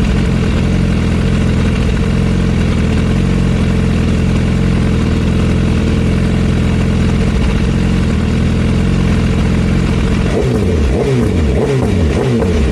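Superbike engine running steadily at cruising speed. About ten seconds in, the engine pitch starts sweeping up again and again.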